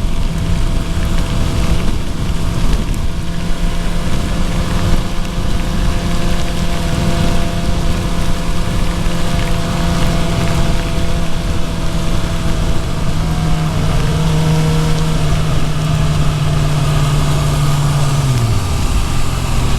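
Suzuki GSX-R750's inline-four engine running at a steady speed under a dense rush of rain and wind noise, its pitch dropping near the end as the bike slows.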